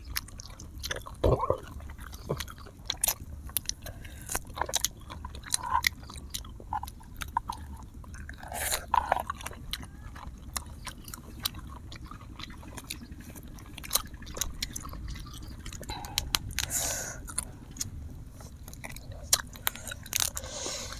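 Close-miked chewing and biting of grilled duck eaten with the fingers: irregular wet mouth clicks and smacks, several a second.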